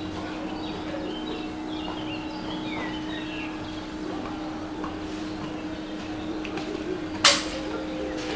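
Small birds chirping over a steady low hum, with one sharp click near the end, the loudest sound.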